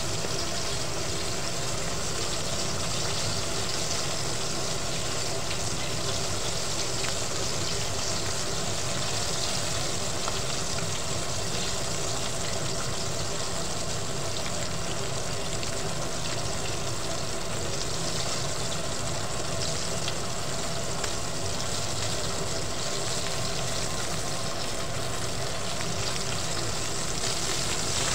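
Breaded chicken breasts shallow-frying in hot oil, a steady sizzle, over a steady low hum.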